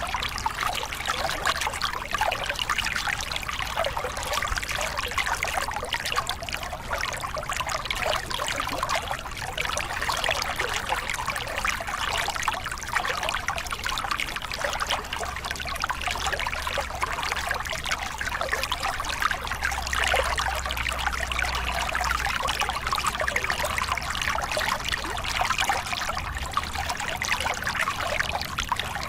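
A small river cascade: water splashing and gurgling steadily over rocks, with a faint low rumble underneath.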